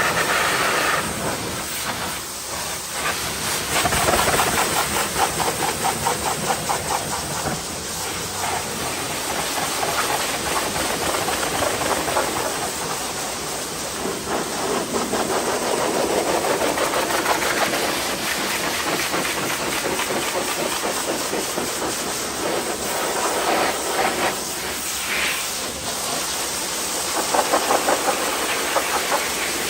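High-pressure washer spraying water onto a car: a steady, finely pulsing hiss of the jet on the bodywork, rising and falling in loudness several times.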